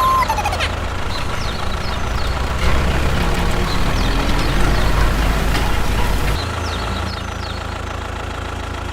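A steady, low engine rumble like a heavy vehicle idling, with many short, high, falling chirps over it. The rumble drops in level about six seconds in.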